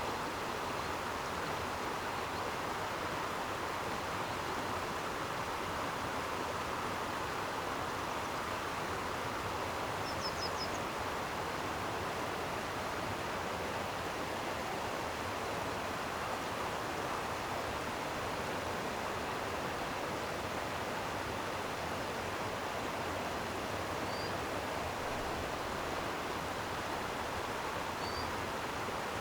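Flowing water running steadily with an even rush. A few faint, short high chirps come about a third of the way in and twice near the end.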